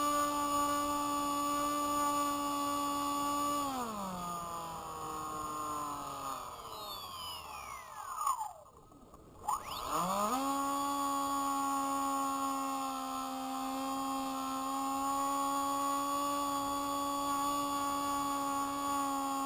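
Small electric motor and propeller of a Spy Hawk RC plane running with a steady whine. About four seconds in it winds down in pitch to almost a stop, then spins back up to full speed about halfway through and runs steadily again.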